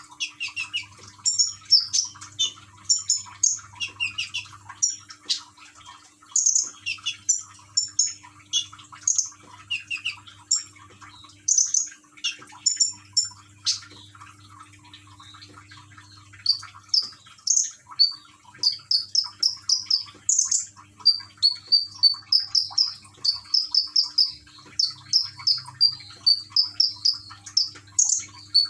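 A konin bird chirping repeatedly in short, sharp, high notes, the chirps coming in a faster, denser run in the last third. A faint steady low hum lies underneath.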